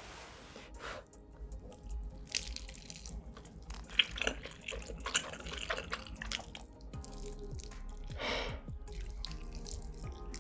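Close-miked wet eating sounds: irregular chewing smacks and mouth clicks, with a longer wet burst about eight seconds in.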